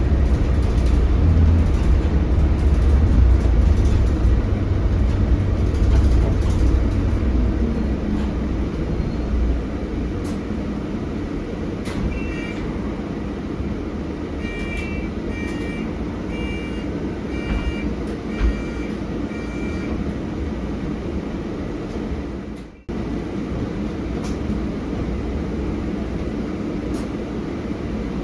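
Scania K320HB bus with its DC9 five-cylinder diesel, heard from inside the cabin: a loud low engine drone for the first several seconds that then settles to a quieter steady running sound. A series of short high electronic beeps comes about halfway through, and the sound cuts out for a moment near the end.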